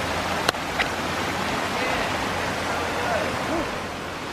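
Steady rushing of a canyon stream, with two sharp clicks about half a second and nearly a second in.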